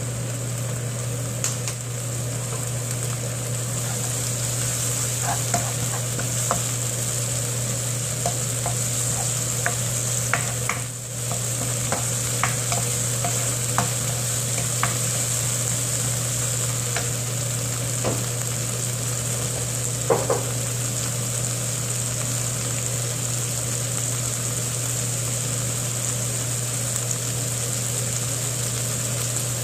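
Chopped kimchi sizzling as it stir-fries in a nonstick wok, with a steady hiss and a steady low hum underneath. A wooden spoon clicks and scrapes against the pan now and then as the kimchi is stirred, mostly in the first half.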